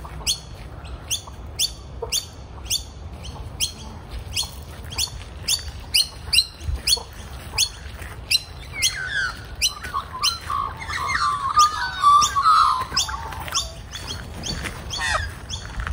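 Young Australian magpies calling: short, sharp high calls repeated about twice a second, joined about nine seconds in by a louder warbling passage of gliding notes that lasts several seconds.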